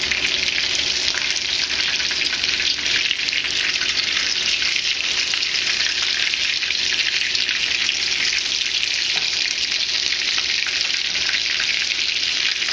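Breaded bluegill fillets sizzling steadily in hot oil in a frying pan while they are turned over with a fork.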